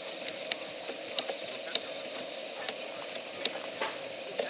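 Wood fire crackling: irregular sharp pops and snaps, a few a second, over a steady hiss of burning wood. A thin, steady high-pitched tone runs underneath.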